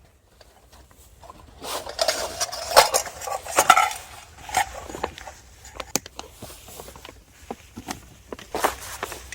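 Camping gear being handled and set down: metal cookware and utensils clinking and clattering. The clatter is busiest and loudest from about a second and a half in to about four seconds, then thins to scattered clicks.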